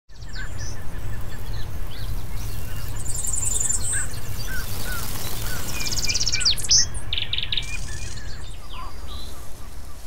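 Several birds chirping and calling: short whistled notes and fast high trills, over a steady low rumble.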